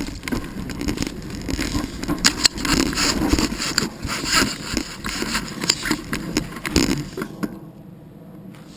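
Bike rattling and clattering over tree roots on a dirt trail, with a dense run of knocks and jolts that eases off near the end.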